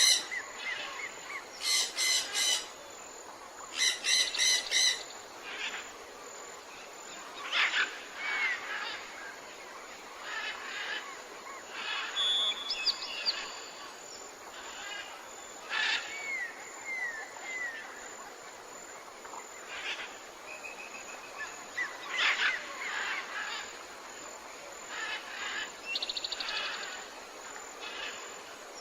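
Tropical forest birdsong: several birds calling over one another, with loud rapid pulsed calls about two seconds in, and short whistled chirps and rising notes scattered throughout, over a steady background hiss.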